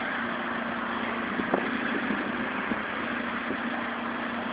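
A car engine running steadily at idle, with a few faint knocks.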